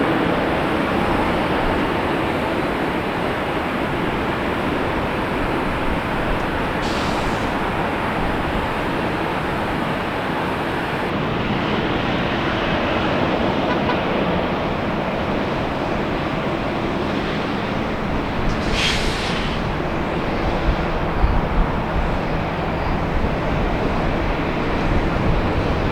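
Jet airliner engines running with a steady roar, a low rumble growing stronger in the last few seconds.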